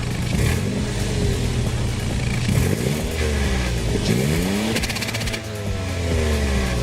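Toyota Yaris petrol engine idling and being revved in repeated blips, the pitch climbing and falling several times, heard through the exhaust.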